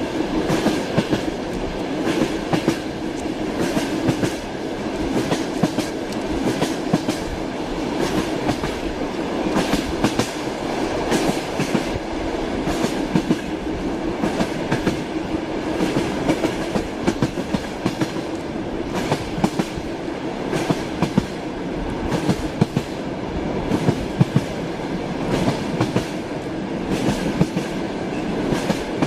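Train wheels clattering over rail joints: a steady rolling rumble with repeated sharp clacks.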